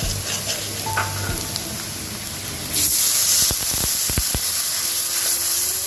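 Chopped onions and turmeric frying in hot oil in a pan, sizzling. The sizzle gets louder a little before halfway, and a few sharp taps follow.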